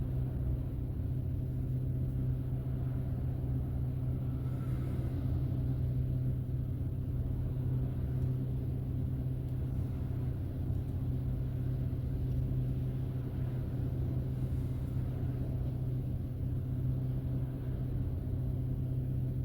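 Steady low drone of a car being driven, engine and road noise as heard from inside the cabin, with an even hum that holds throughout.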